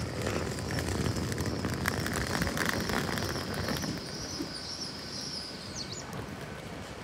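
Great Western Railway Intercity Express Train pulling into the platform: a low rumble with a steady high whine that stops near the end.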